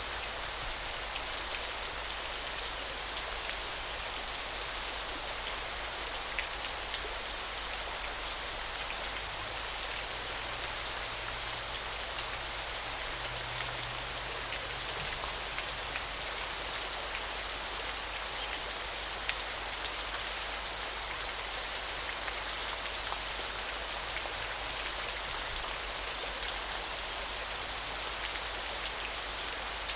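Steady rush of running water with a scattered patter of droplets. A high, thin buzz fades out over the first few seconds, and from about ten seconds in a short high buzz repeats roughly every two seconds.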